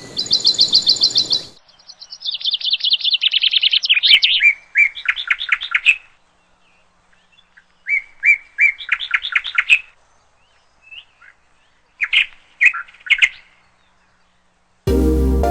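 A songbird singing in phrases of rapid, high trilled notes, each phrase a couple of seconds long, with a falling run of notes in the first few seconds and short pauses between phrases. Music starts near the end.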